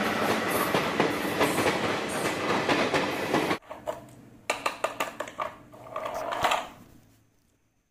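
Passenger train passing at speed, a steady rumble and clatter of the coaches on the rails, cut off sharply about three and a half seconds in. Then a plastic toy train clicks and rattles in a quick run as a hand pushes it across a mat.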